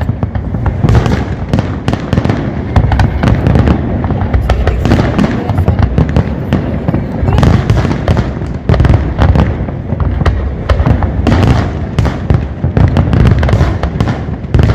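Large aerial fireworks display: a continuous barrage of deep booms and sharp cracking bursts, several a second, with no let-up.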